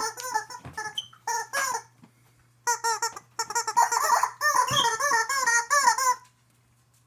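Squeaky rubber chicken toy squeaked over and over in quick runs: a first run, a short pause about two seconds in, then a longer run that stops about a second before the end.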